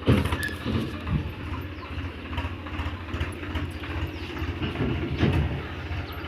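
Tractor engine running steadily with a low, even pulse, along with rattling and clanking knocks from the machine.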